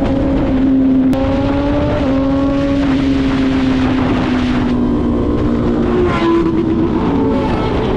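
Motorcycle engine running at steady cruising revs, its note shifting slightly in pitch now and then, over a broad rush of road and wind noise.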